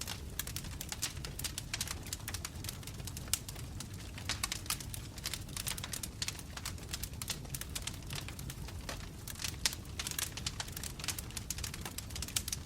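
Burning logs in a fireplace crackling: many sharp, irregular snaps and pops close together over a steady low rumble of the fire.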